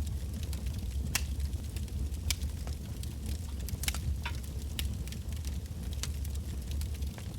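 Wood bonfire burning: irregular sharp crackles and pops of the logs over a steady low rumble, with the loudest pops a little over a second in, at about two seconds and near four seconds.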